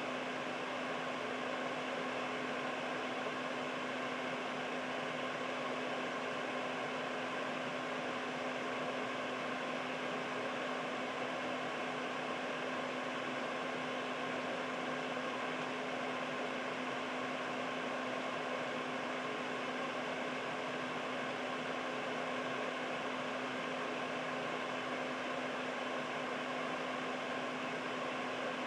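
Air purifier fan running steadily: an even rush of air with a constant low hum.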